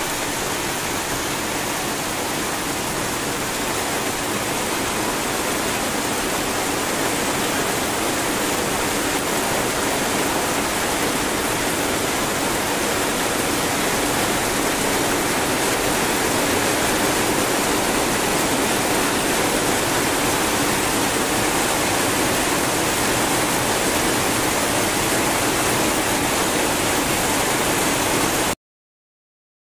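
Heavy rain pouring steadily onto flooded ground, standing water and leafy plants: a dense, even hiss that cuts off suddenly near the end.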